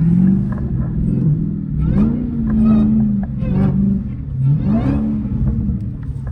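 Dodge Hellcat's supercharged 6.2-litre V8 revving hard twice in long surges while drifting on snow. The pitch climbs about 2 s in and again near the end, holds, then falls back each time.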